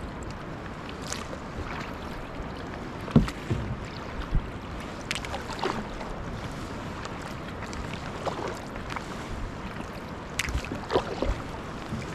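Kayak paddling: paddle blades dipping and splashing at irregular intervals over a steady hiss of wind on the microphone, with a sharp knock about three seconds in.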